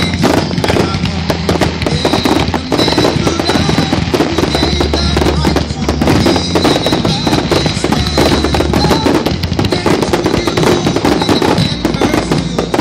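Fireworks display: many aerial shells bursting in a rapid, dense, continuous barrage of loud bangs.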